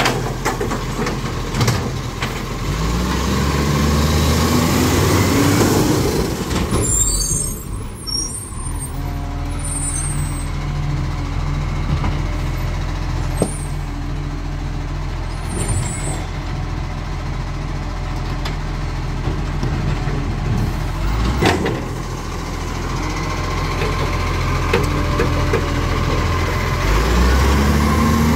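A garbage truck's diesel engine revving up as it pulls away, with a hiss of air brakes after a few seconds. The engine then runs steadily and revs up again near the end.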